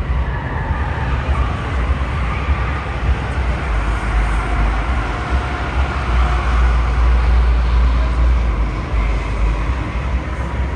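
Steady background noise of a large exhibition hall: a heavy low rumble with a diffuse wash of distant crowd and hall noise.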